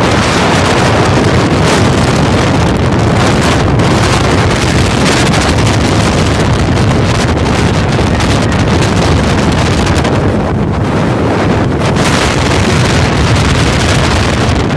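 Strong wind blasting across the microphone: a loud, steady rumbling roar of wind noise with only slight lulls.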